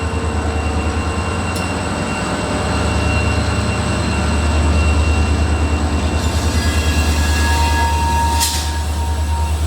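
Union Pacific diesel locomotive and its cars switching close by, a loud pulsing low engine rumble throughout. About three-quarters of the way in, a thin steady squeal joins, typical of wheels on the rails, with a short hiss just after it.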